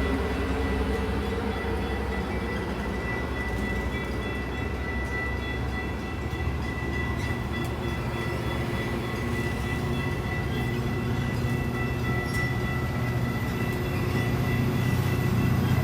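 Train passing on the rails: a steady low rumble of rolling cars with a thin, steady high tone above it, growing louder near the end.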